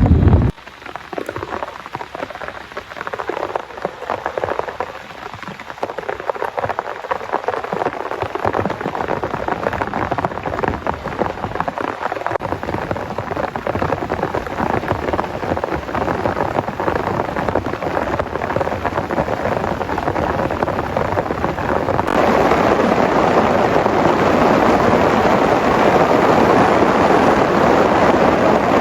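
Heavy rain falling steadily, building over the first several seconds and getting suddenly louder about two-thirds of the way through.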